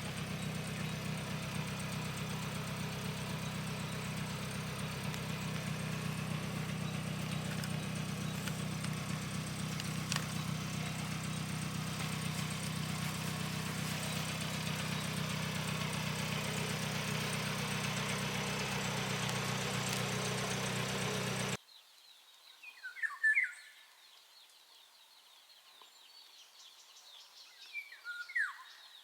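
An engine running steadily at an even pitch, cut off abruptly about three-quarters of the way through. Then, against a quiet background, come two short bird calls about five seconds apart.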